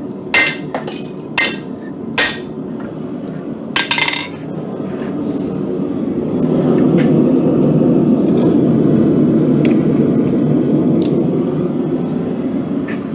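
Hand-hammer blows on hot mild steel over an anvil: a handful of sharp, ringing strikes in the first four seconds. The hammering then stops and a steady rushing roar builds up and holds.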